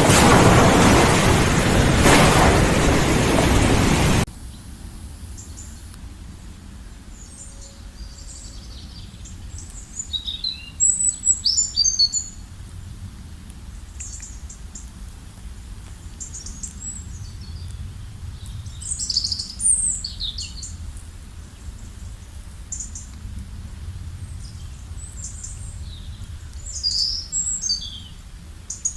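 A loud, even rushing noise for about the first four seconds that cuts off abruptly, then songbirds chirping in short scattered bursts of high calls, loudest about seven, nineteen and twenty-seven seconds in, over a faint low rumble.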